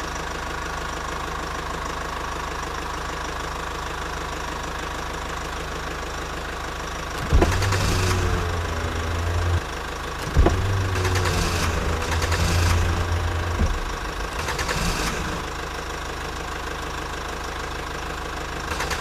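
Tractor engine running steadily, then getting louder in two surges starting about seven and ten seconds in, each beginning with a sharp knock.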